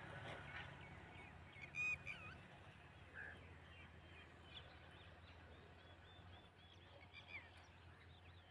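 Birds calling in the open: scattered short chirps and whistles, with one loud, sharp call about two seconds in, over a faint steady low hum.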